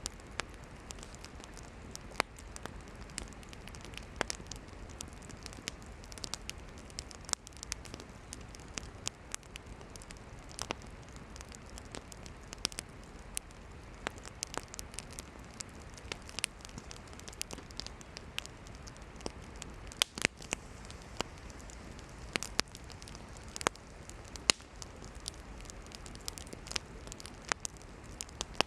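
Wood campfire burning, its firewood crackling with irregular sharp pops over a steady low hiss of the flames.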